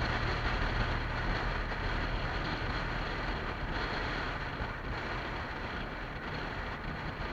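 Wind rushing over the microphone of a moving motorcycle, with the low hum of its engine underneath, growing slowly quieter.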